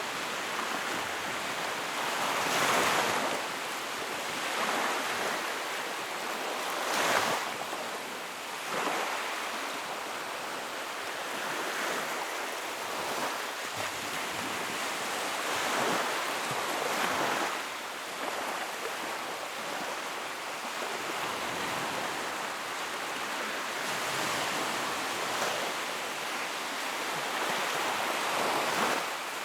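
Wood fire burning in a fireplace: a steady rushing hiss of flames that swells and eases every few seconds, with a few sharp crackles.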